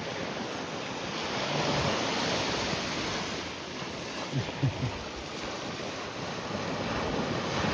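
Small surf washing on the beach, swelling and ebbing, with wind buffeting the microphone. Three brief low knocks come just past the middle.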